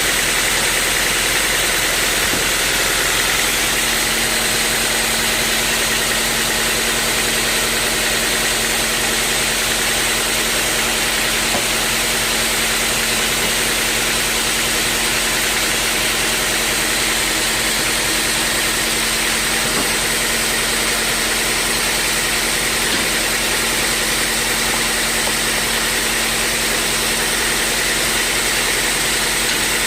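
Sawmill machinery running steadily: a constant engine-like drone with steady whining tones in it, unchanging throughout.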